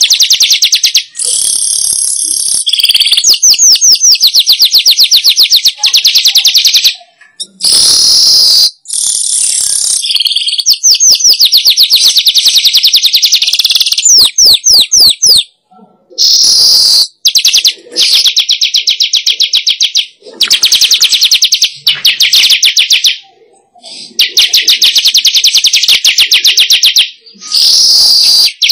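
Manyar (weaver bird) song played as a lure recording: loud runs of rapid, high, buzzy chattering trills, each lasting several seconds, repeating with short breaks between them.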